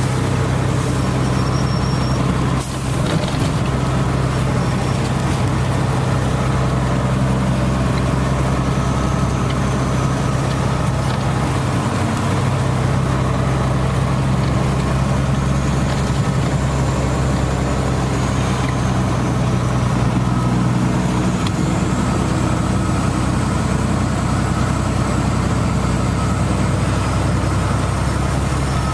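Vehicle engine idling steadily with a low hum, under an even hiss of rain.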